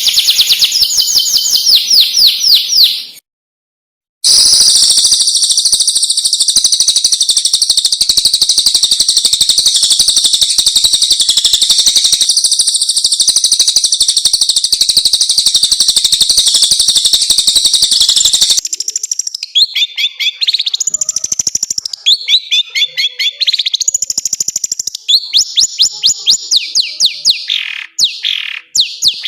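Recorded songbird song from a cendet (long-tailed shrike) training track: fast repeated high chirps, then a cut to a second of silence. After it comes a long, dense, high trill lasting about fourteen seconds, then a string of varied chirping phrases.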